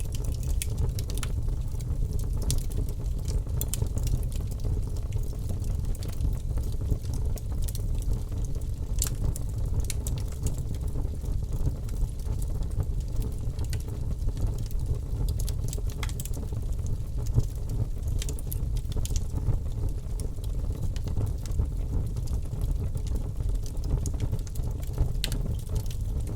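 Wood logs burning in a fireplace: a steady low rumble of the flames with scattered sharp crackles and pops.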